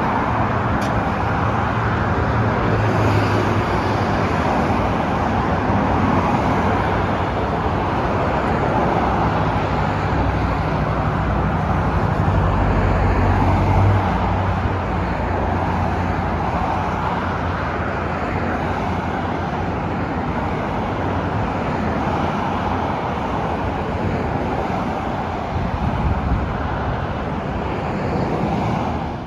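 Steady road-traffic noise: a continuous rush of car tyres and engines, with a low hum underneath, that cuts off abruptly at the end.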